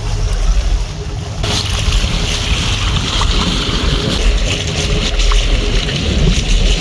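Wind buffeting the microphone over the rush of water past a yacht's hull while it is under way, with a heavy low rumble. The hiss turns brighter about a second and a half in.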